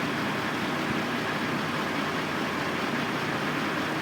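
Construction machinery engines running steadily, an even hiss over a faint low hum.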